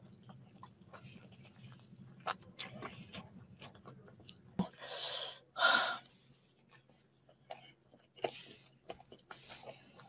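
Close-up chewing and mouth sounds of a person eating dumplings: wet clicks and crackles, with two louder breathy bursts about five seconds in.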